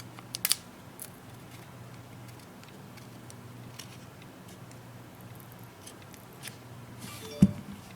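Small sharp clicks and light taps of a hand tool working against a tablet's opened case around the glued edge of its battery, with one loud knock about seven seconds in, over a faint steady hum.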